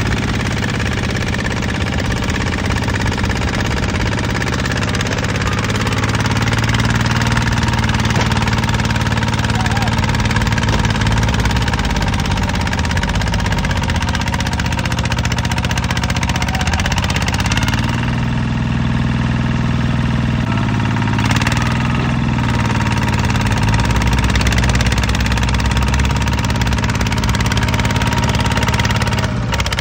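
Yanmar 160 tractor's diesel engine running steadily, its note shifting a little past halfway through as the engine speed changes.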